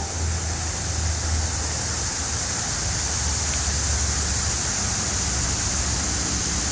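Steady rush of flowing creek water, an even hiss with a low rumble underneath.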